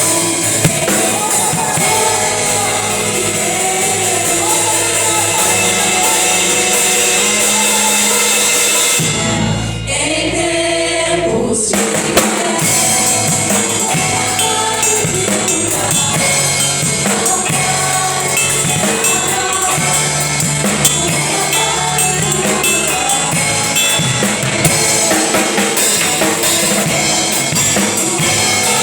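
Live band playing worship music, with a drum kit keeping a steady beat under bass and melody. About nine seconds in, the cymbals and upper instruments drop out for roughly two seconds, leaving low bass, before the full band comes back in.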